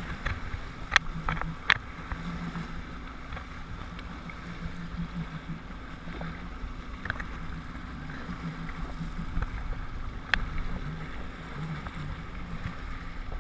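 Jet ski engine running slowly with a steady low hum, over a haze of wind and water noise. A few sharp taps come through: two about a second in and one near the end.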